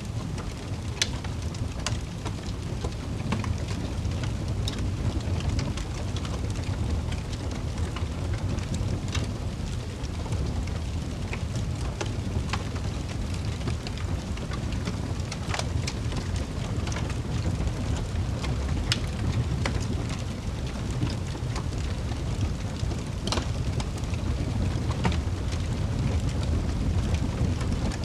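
Wood fire in a fireplace crackling: scattered sharp pops over a steady low rumble of the flames.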